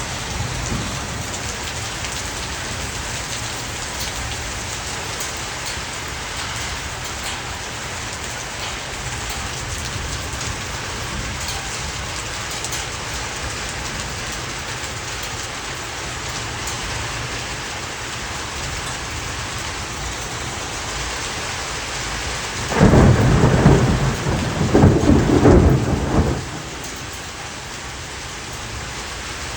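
Heavy rain and hail falling steadily, with many small sharp ticks of drops and hailstones striking surfaces. About three-quarters of the way through, a loud rumble of thunder lasts some three seconds.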